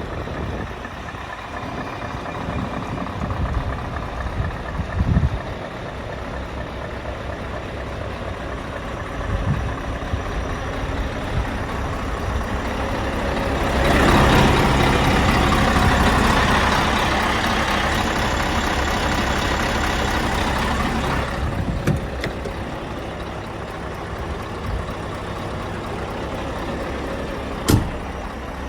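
Scania R520's 16-litre V8 diesel engine idling, with a louder, rougher stretch of about eight seconds in the middle and a sharp click near the end.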